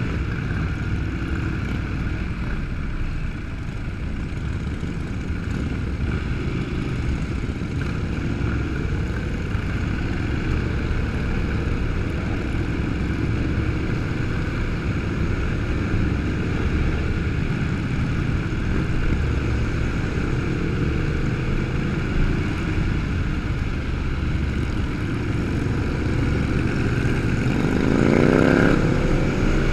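Motorcycle engines running with a steady rumble and noise, and an engine revving up near the end.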